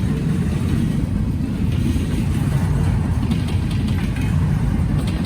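Intermodal freight train of empty well cars rolling past, a steady low rumble of wheels on rail with a few faint clicks about three to four seconds in.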